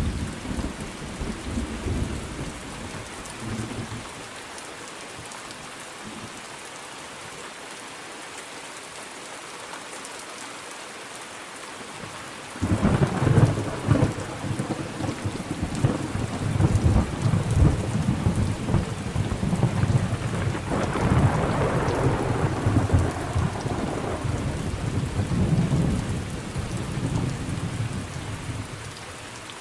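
Steady rain with thunder. A rumble dies away in the first few seconds; about halfway through a sudden loud thunderclap breaks in and rolls on in surges for some fifteen seconds before fading near the end.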